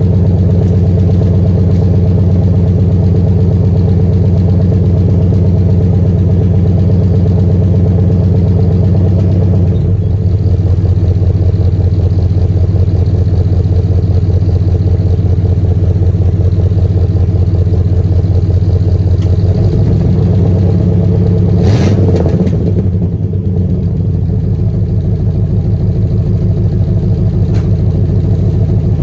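1980 Oldsmobile 98's V8 engine running at idle, a steady low rumble whose note shifts about ten seconds in. A short burst of noise comes a little past two thirds of the way through.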